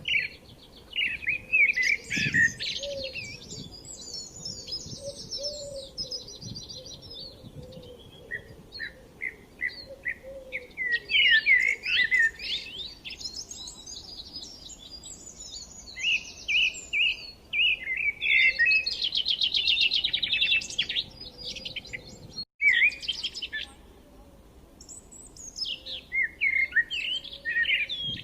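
Several songbirds chirping and singing together: quick runs of repeated high chirps alternating with fast buzzy trills, with one brief dropout about three-quarters of the way through.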